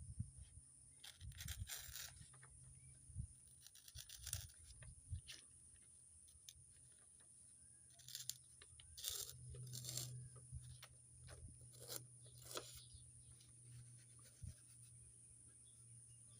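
A sheet of paper rustling and crinkling in short, irregular spells as it is handled, folded and creased by hand.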